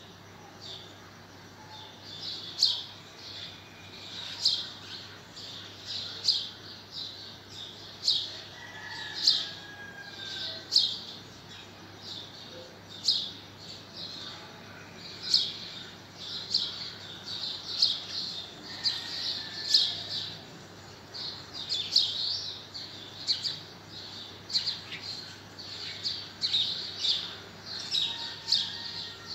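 Birds chirping: short, sharp chirps repeating irregularly, one to three a second, with a few fainter whistled calls now and then.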